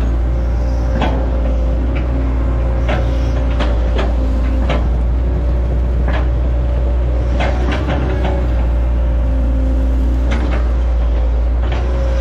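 Hitachi ZX110 excavator's diesel engine running steadily under load with a steady hydraulic whine, and about a dozen irregular sharp knocks and cracks of the machine working.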